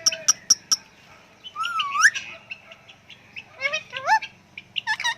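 Bird calls: a quick run of sharp chirps for about the first second, then short swooping, rising whistles about two seconds in and again near four and five seconds.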